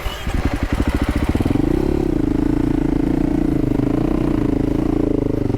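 Dual-sport motorcycle engine pulling away from slow, its separate firing pulses quickening over the first second and a half, then running steadily at an even pitch.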